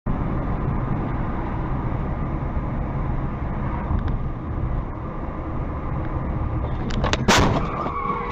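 Dashcam recording of a moving car: steady road and engine noise, then a loud collision impact about seven seconds in as the cars crash.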